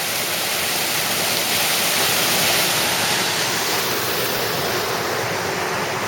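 Creek water rushing steadily down a rocky channel and over small cascades.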